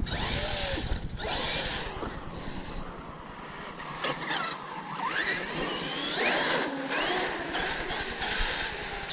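Electric RC cars' brushless motors whining, the pitch repeatedly rising and falling as they accelerate and slow, over a steady hiss of tyres and ground noise.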